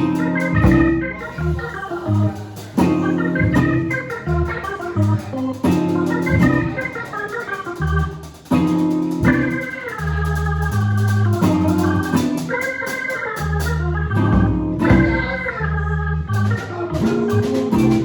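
Live band playing an instrumental passage led by an organ-toned keyboard, which plays quick runs of notes over a stepping bass line, with a steady quick ticking on top.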